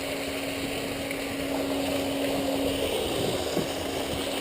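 A steady mechanical hum from the off-road vehicle being winched, over the rush of water from the waterfall.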